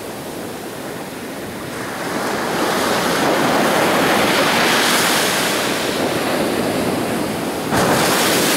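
Ocean surf: a wave breaking and rushing in, the wash of water building from about two seconds in and staying loud, with a sudden louder surge near the end.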